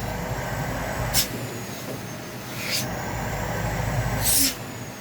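Vacuum cleaner running and blowing air, with a faint steady high whine from its motor. Short, louder hisses of rushing air come about a second, two and a half seconds and four seconds in, the last the loudest.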